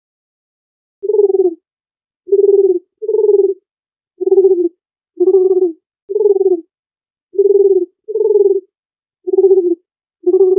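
Dove cooing: about ten short, low coos, roughly one a second and sometimes in quick pairs, starting about a second in.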